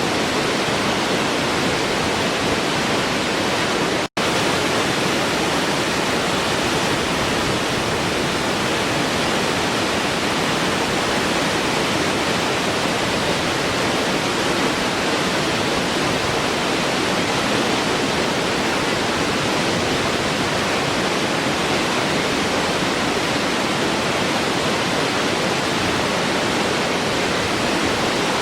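Waterfall rushing in an even, unbroken roar of falling water, with a split-second dropout to silence about four seconds in.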